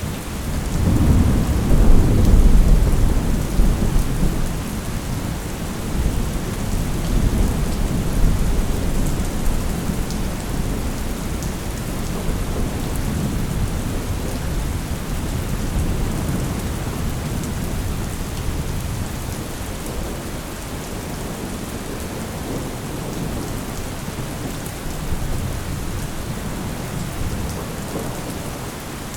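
Thunderstorm: steady heavy rain, with a long rolling thunder rumble that swells about a second in and fades out over the following several seconds.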